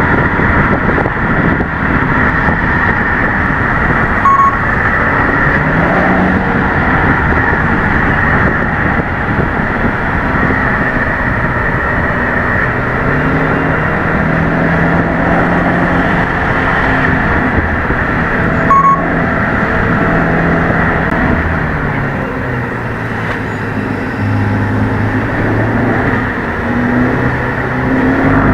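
Subaru WRX S4's turbocharged flat-four running under way through its CVT, the intake and exhaust note rising and falling in steps as the car accelerates and eases off, over steady road noise. A short high beep sounds twice, about 4 seconds in and again past the middle.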